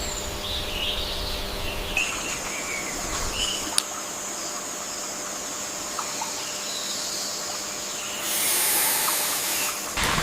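Outdoor ambience: birds chirping in the first few seconds over a steady high hiss, then a louder rushing hiss for about two seconds near the end.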